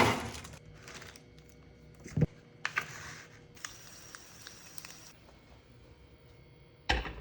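Scattered handling noises in a small room: light clicks and knocks, a dull thump about two seconds in, and a couple of short rustling, hissing stretches, as things are handled while breakfast is made.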